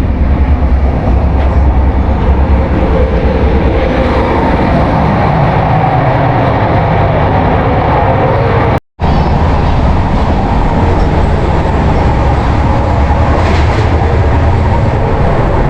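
Passenger train running at speed, heard from inside a coach: a loud steady rumble of wheels on the track and carriage noise. It cuts out for a moment about nine seconds in.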